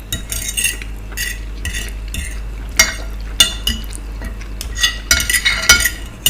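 Metal cutlery scraping and clinking against a plate of food, with irregular sharp clinks that ring briefly.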